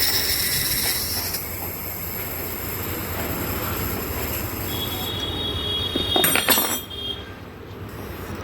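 Sanden AC compressor running with a high-pitched metallic squeal of several steady tones that starts abruptly. About five seconds in it gives way to a single lower squeal with a short loud rattle, the noise of a cracking bearing.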